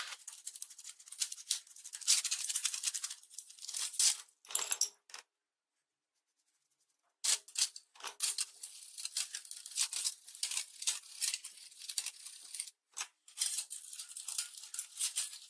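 Close scratching and clinking of hand work on rusty metal parts, a rapid run of small scrapes and ticks, broken by a brief silence about five seconds in.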